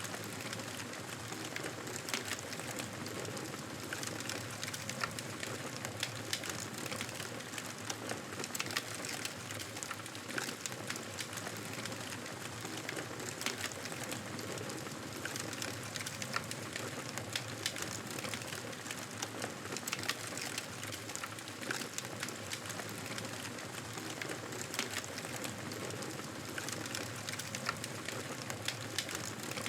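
Wood fire crackling steadily in a fireplace, with frequent small sharp pops and snaps over a low hiss.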